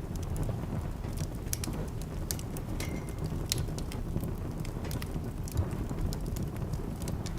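Wood fire in a fireplace crackling and popping irregularly over a steady low rumble of the flames, with a brief high whistle from the fire about three seconds in.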